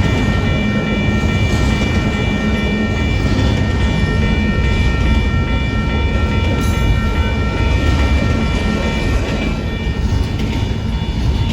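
Westbound Union Pacific freight train's cars rolling past close by: a steady, loud rumble of wheels on rail with several high, steady ringing tones over it.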